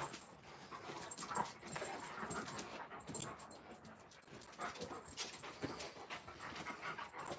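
Alaskan Malamute puppies panting faintly and moving about, with scattered short scuffs and clicks.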